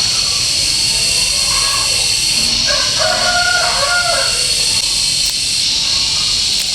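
A rooster crowing once, about three seconds in, over a steady high-pitched hiss.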